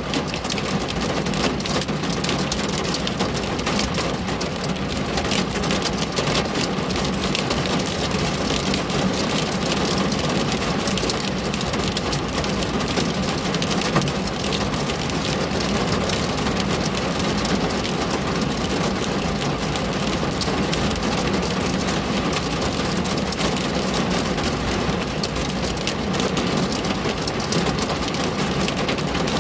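Steady rain falling on a window: an even hiss of many drops that stays at one level throughout, with a steady low hum underneath.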